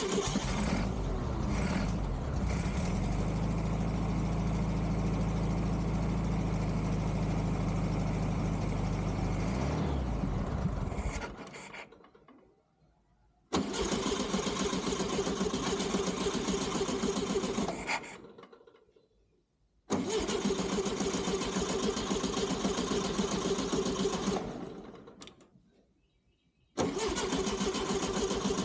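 1969 Volkswagen Beetle's air-cooled flat-four engine, fed from a makeshift gravity fuel bottle, starting and running for about ten seconds before winding down and dying. It is then brought back to life three more times, each run lasting a few seconds before dying away again.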